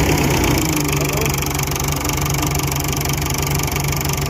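Fordson Super Major tractor's four-cylinder diesel engine idling steadily with an even low knock, easing off a little about half a second in.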